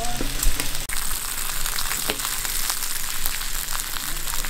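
Pork belly slices and butternut squash sizzling in fat on a grill pan: a steady crackling hiss with a few light clicks.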